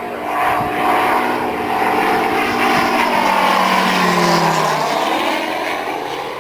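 Radio-controlled model aircraft engine flying past. The loud, steady engine note is strongest mid-pass, then drops in pitch about four to five seconds in as the plane goes by.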